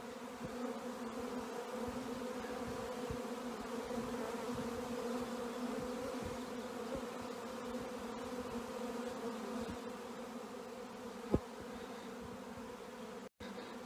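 Swarm of honey bees in flight, a steady many-winged buzzing hum. A single short tap about eleven seconds in.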